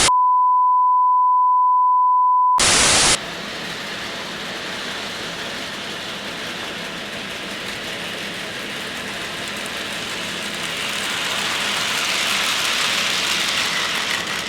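A short burst of static, then a steady pure beep tone held for about two and a half seconds, cut off by a second burst of static. After that comes a steady hiss of static, growing a little louder near the end.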